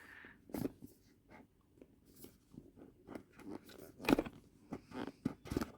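An earbuds retail box being opened and its packaging handled: irregular crinkles, scrapes and clicks, the loudest about four seconds in and just before the end.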